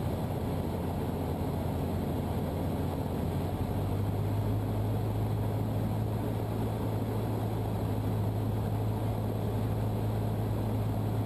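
Cessna 152's four-cylinder Lycoming engine and propeller droning steadily in the cockpit on the base leg of the landing pattern, the low engine tone growing a little stronger about three and a half seconds in.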